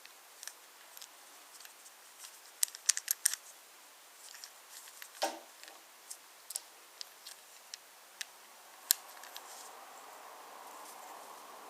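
Wooden toy trains and wooden railway track clicking and clacking, irregular light wooden knocks with one duller knock about five seconds in. A faint steady hum comes in near the end.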